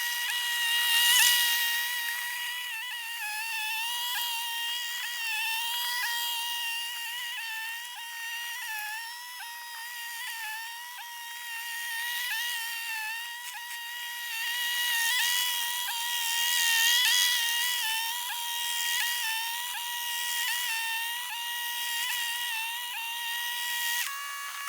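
John Deere 450 bulldozer engine running under load, its sound sped up about twentyfold into a high-pitched steady whine. The pitch dips briefly again and again as the engine is loaded down. It falls lower just before cutting off at the end.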